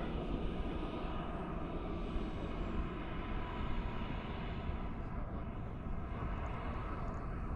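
Turbine engine of a radio-controlled L-39 Albatross model jet running, a steady whine over a rushing noise.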